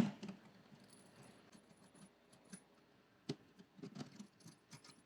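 Faint, scattered clicks and light knocks of hands working a Harley-Davidson touring saddlebag's lid and latch as the bag is opened and taken off, with a small knock at the start.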